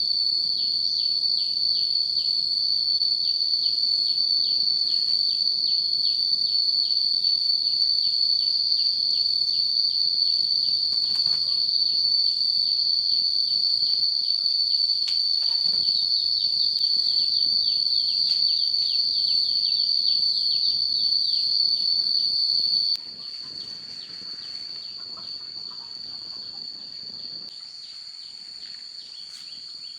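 Insects singing in a steady, high-pitched chorus with rapid repeating chirps; the chorus drops suddenly in loudness about three-quarters of the way through and carries on more quietly.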